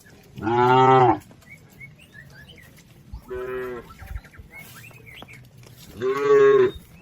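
Village cattle mooing: three short moos, the first and last loud and the middle one quieter.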